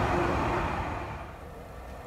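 Electric commuter train passing close by, its running noise fading away over about a second and a half as the last car goes past.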